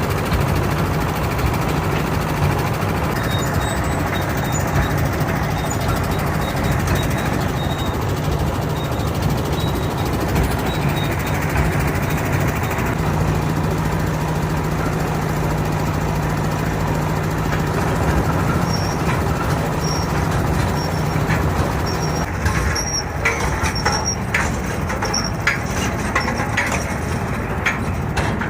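An engine running steadily with a low, even hum. About 22 seconds in the hum's steady tone drops away and a series of sharp clicks and knocks follows.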